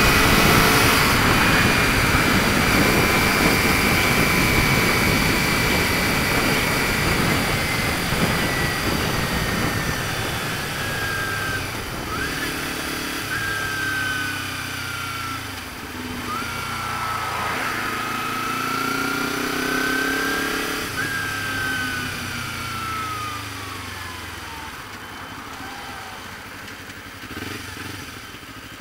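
Kawasaki Ninja 250 running through a Pipewerx aftermarket exhaust with the baffle fitted, heard from the rider's seat. Wind noise is loud at first and fades as the bike slows. The engine note falls, rises and falls again with the changes of speed, and dies away toward the end.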